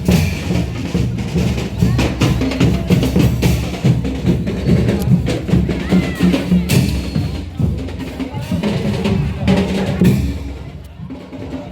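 Parade marching-band drums playing: bass drums and snare drums beating a steady marching rhythm, loud and dense, easing off briefly near the end.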